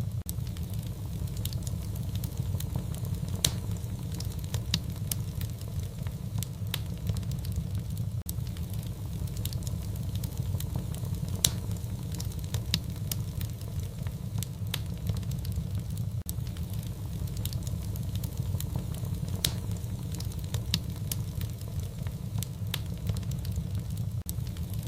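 Fire in a fireplace crackling: a steady low rumble with frequent sharp, irregular pops and snaps.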